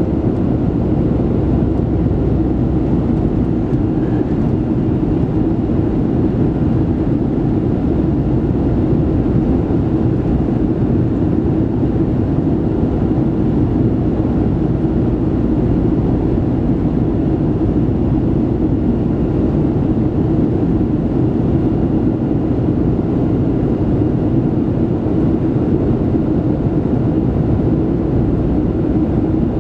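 Steady in-cabin drone of a Boeing 737-700 climbing after takeoff: the CFM56-7B turbofan engines and rushing airflow make an even, unchanging roar, with a constant low hum underneath.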